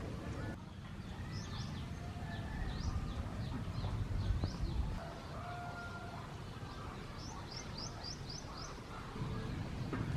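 Small birds chirping in short high calls, with a quick run of about six chirps near the end. Under them is a low rumble that swells around the middle.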